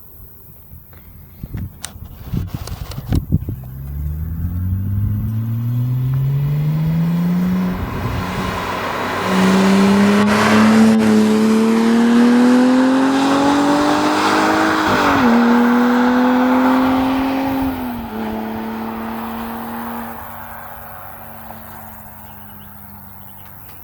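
Porsche Boxster 987 Mk2 flat-six through a Cargraphic sport rear silencer with exhaust flaps, accelerating hard with the pitch climbing, dropping back at two upshifts, then holding steady and fading away. A few sharp clicks sound just before the acceleration starts.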